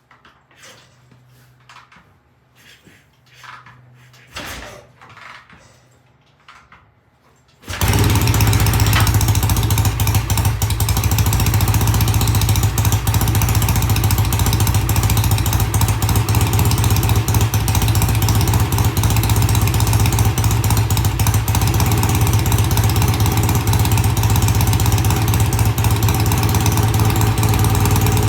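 A few faint knocks and rustles, then about eight seconds in a BSA A65 650 cc parallel-twin motorcycle engine fires, its carburettors just tickled, and settles into running steadily.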